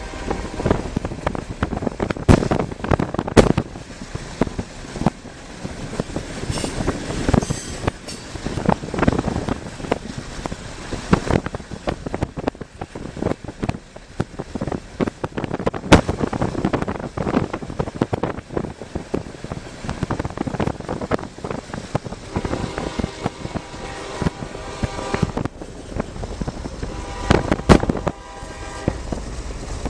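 CSX freight train rumbling past, heard from a car pacing alongside, with rough irregular crackling and thumps throughout. The locomotive's air horn sounds a couple of times in the last third.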